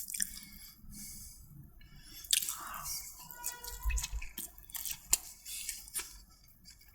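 Wet, sticky squishing with irregular small clicks as food is mixed with chili paste.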